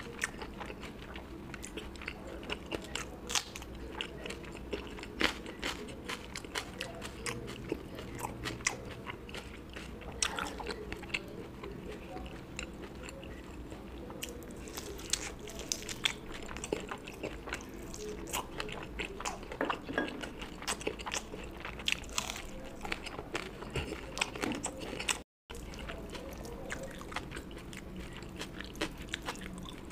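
Close-miked chewing and biting of food, a steady stream of irregular wet clicks and crunches as a person eats curry and rice with their mouth near the microphone.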